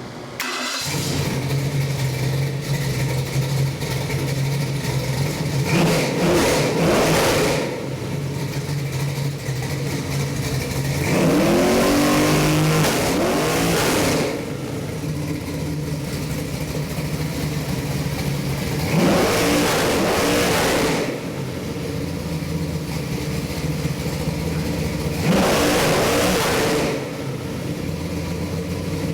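Ford 418 Windsor stroker V8 crate engine, about 500 hp, fired up and run. It idles steadily, with four blips of the throttle; the second rev, near the middle, is the longest and loudest.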